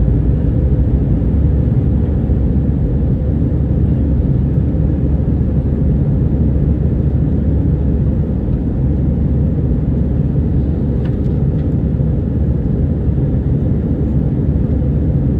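Airbus A320 cabin noise: a steady low rumble of the engines and airflow, heard from inside the cabin.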